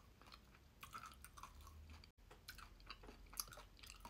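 Faint close-up chewing: soft, wet mouth clicks and smacks of someone eating a spoonful of chocolate mousse, with a brief cut to silence about halfway.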